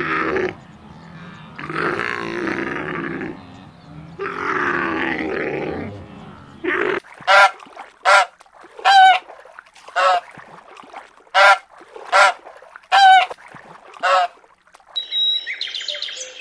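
Animal calls: three rough, noisy calls, then a quick run of about ten short, clear honks, like a goose's.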